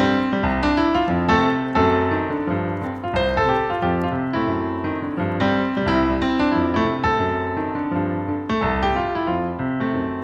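Piano music: a steady run of struck chords and notes.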